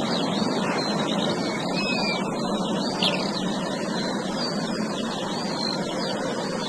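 Many birds calling at once, short rising and falling chirps and whistles overlapping without pause, over a steady noise.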